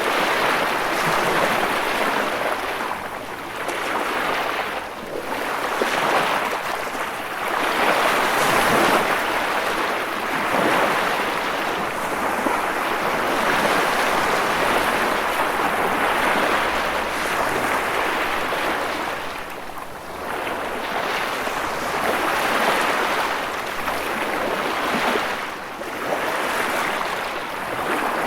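Ocean waves breaking and washing in a continuous surf, swelling and easing every few seconds.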